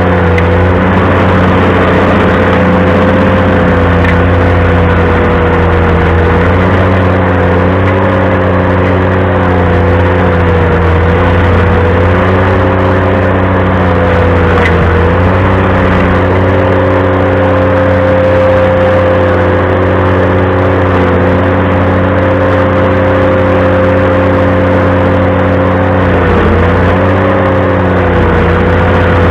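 Ventrac compact tractor running a stump grinder attachment at steady high speed. The engine's pitch sags briefly about three times as the cutting wheel bites into the stump and takes load.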